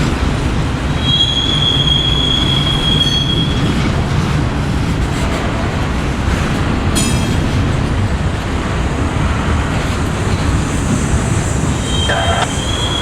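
A train's cars rolling past on the rails with a steady rumble. The wheels give a high squeal about a second in that lasts a few seconds, and again near the end. A single sharp click comes about halfway through.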